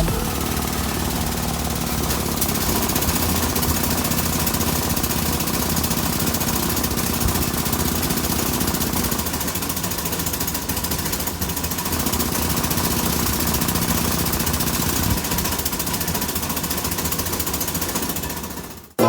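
Air-powered impact tool hammering rapidly and continuously, as used on semi-truck wheel lug nuts, with a steady level. It cuts off abruptly near the end.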